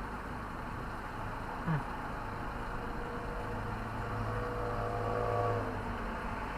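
Steady vehicle noise, like a car running, with a brief knock about two seconds in and a steady droning tone for a couple of seconds past the middle.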